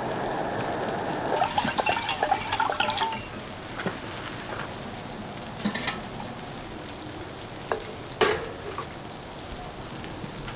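A steady sizzling hiss, then a busy clatter of cookware and utensils for a couple of seconds, followed by a few single sharp clicks.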